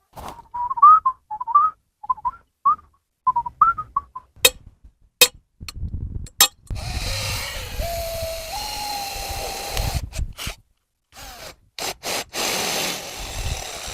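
A person whistling a few short, upward-bending notes, followed by several sharp clicks and then a few seconds of rough noise with a low rumble.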